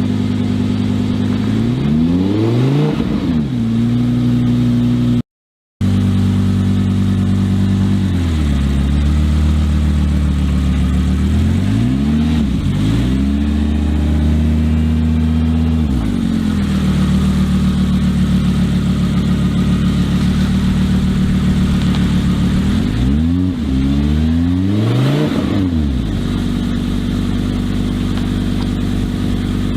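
V10 engine mid-mounted in a Volvo 244 race car, running steadily with repeated throttle blips that send the revs up and back down several times. It is briefly cut off about five seconds in.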